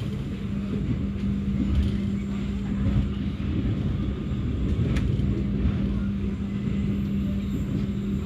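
Passenger train running: a steady low rumble with a constant hum underneath, and a single sharp click about five seconds in.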